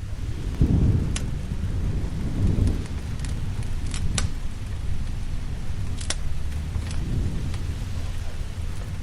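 Steady rain with low rolling thunder that swells about a second in and again a little later, over which a wood fire gives a few sharp crackling pops.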